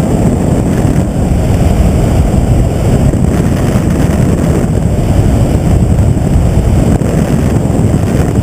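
Loud, steady helicopter noise with wind buffeting the microphone.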